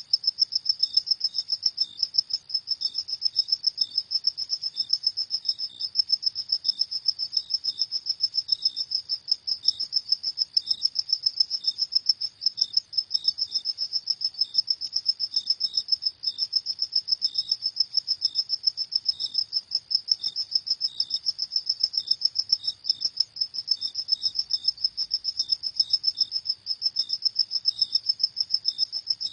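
Crickets chirping: a high, rapid chirp repeated evenly, several times a second, without a break.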